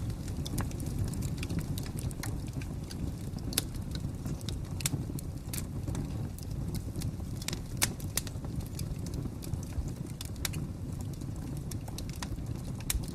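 Wood fire crackling: irregular sharp pops and snaps over a steady low rumble, with one louder pop a little before the eight-second mark.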